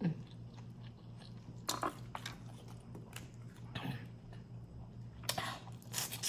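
A person eating from a crawfish boil close to the microphone: chewing, with a few short wet, crunchy bites and clicks scattered through.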